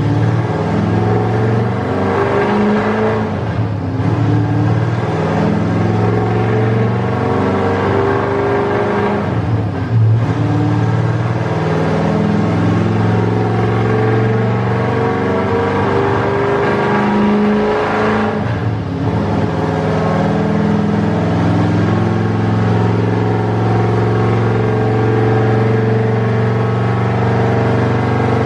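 408-cubic-inch LS stroker V8 running under load on a dyno during tuning. It holds a steady engine speed with slow rises, broken by brief lifts about three, ten and eighteen seconds in.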